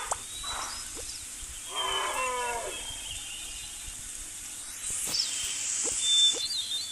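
Animal calls: a short cry with falling pitch about two seconds in, and high thin chirps near the end.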